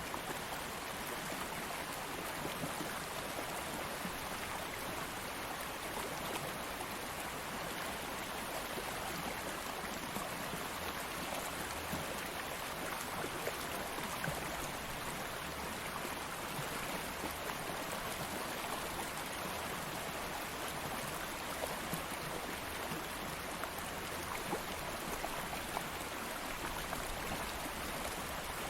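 A stream flowing steadily over stones, an even rushing and babbling of water with small splashes throughout.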